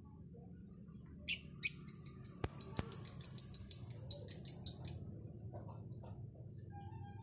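Lovebird calling in a fast, even run of shrill chirps, about five a second for three to four seconds, then a few fainter scattered calls.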